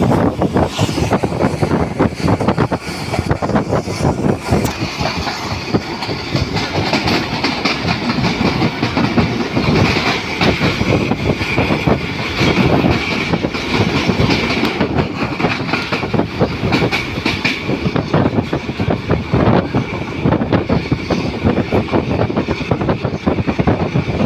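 Passenger train running along the track: a continuous, loud rattling clatter of wheels and carriage, with a steady high whine running through it.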